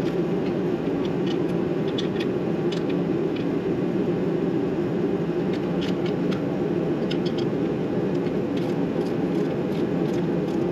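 A steady mechanical whir in the garage, with scattered light clicks and taps of hand tools working the clutch bolts.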